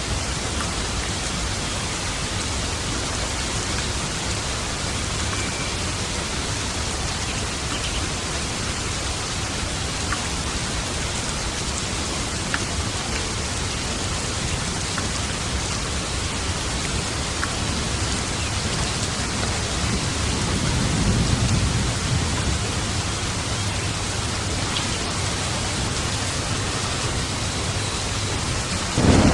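Steady heavy rain hissing throughout. A low rumble of thunder swells and fades about two-thirds of the way through, and a sharper, louder thunderclap breaks in right at the end.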